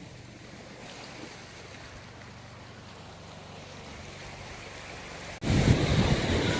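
Ocean surf breaking on the shore, faint and even at first. About five seconds in, the sound cuts off abruptly and comes back much louder, the waves now mixed with wind rumbling on the microphone.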